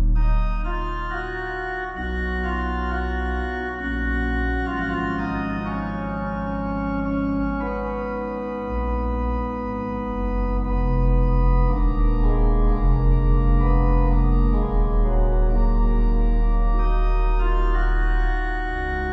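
Slow organ music: sustained chords that change every couple of seconds over deep held bass notes, with a pulsing waver in the middle.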